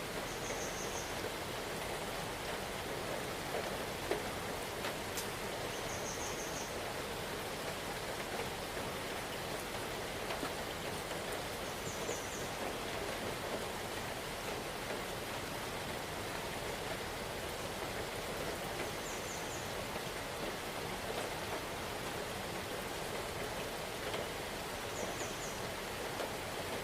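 Steady rain falling, an even hiss of drops. A brief high-pitched trill comes back about every six seconds.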